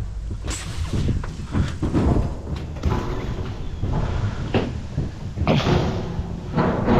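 A heavy object being lifted and shifted by hand, with a series of irregular thumps, knocks and scrapes.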